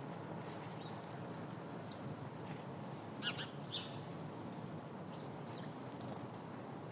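Small birds giving a few short chirps, the loudest pair a little over three seconds in, over a steady low background hiss.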